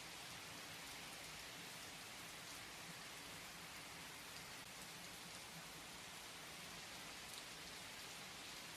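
Steady rain falling, a faint, even hiss.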